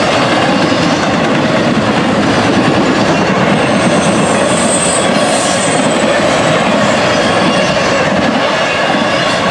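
Union Pacific double-stack container freight train rolling steadily past: wheels running on rail with a clickety-clack, and a brief high wheel squeal about four to five seconds in.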